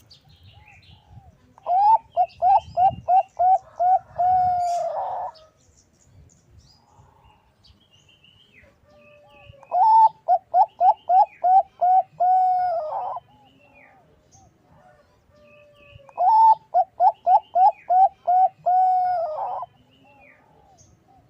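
A zebra dove (Bangkok-bred perkutut) sings three song phrases, each a quick run of about eight short coos followed by a longer drawn-out coo. It is the kind of perkutut song used as a lure to call rival doves.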